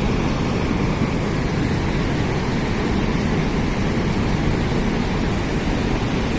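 Steady rush of fast-flowing water pouring down a cascade, a loud even noise heaviest in the low end.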